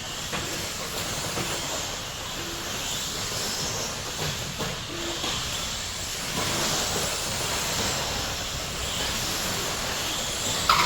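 A field of electric RC stadium trucks with 13.5-turn brushless motors racing on a dirt track: a steady hiss of motors and tyres, with a few faint brief tones coming and going.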